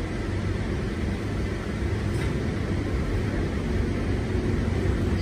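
Steady running noise heard inside a Sydney Trains C set, a chopper-controlled electric train, travelling at speed: an even low rumble from the running gear and wheels on the track.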